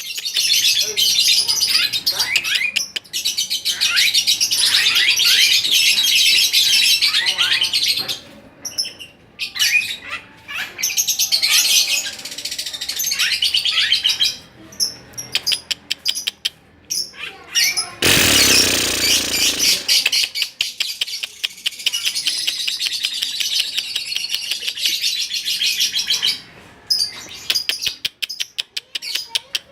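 A songbird singing a fast, continuous chattering song of high trills and quick downward-sweeping notes, broken by a few short pauses. About two thirds of the way in, a burst of rustling noise lasting about two seconds is the loudest thing.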